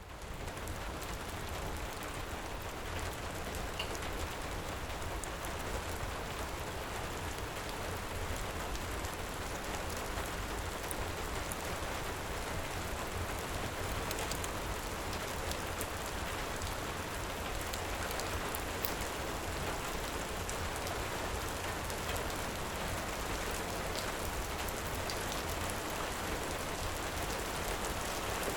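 Heavy rain falling steadily, a dense even hiss with occasional faint sharp ticks, fading in at the very start.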